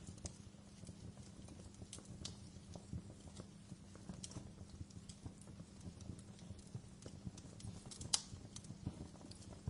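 Wood fire crackling in a fireplace: irregular snaps and pops over a low rumble of the burning fire, with one louder pop about eight seconds in.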